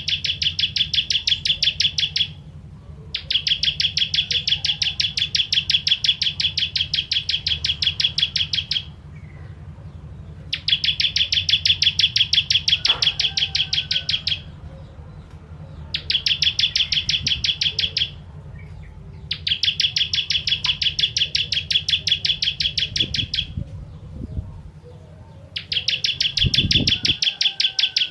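Ciblek kristal prinia singing in long bursts of rapid, evenly repeated high notes, several seconds each, broken by short pauses. A steady low hum runs underneath.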